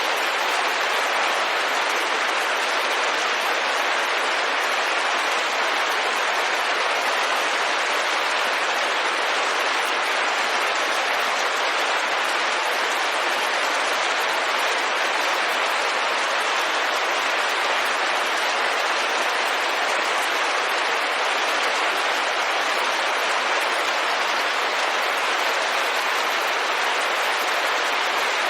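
Steady, dense rain on a window: an even hiss with no single drops standing out, at a constant level throughout.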